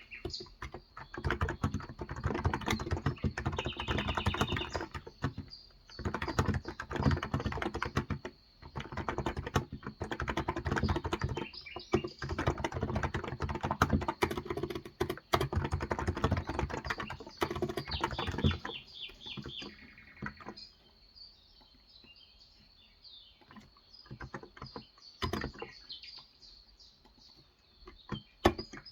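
Typing on a Cox Endeavour 35 g contactless (electrostatic capacitive) tenkeyless keyboard: dense, fast runs of keystrokes that thin to occasional single presses about two-thirds of the way through. Birds chirp in the background.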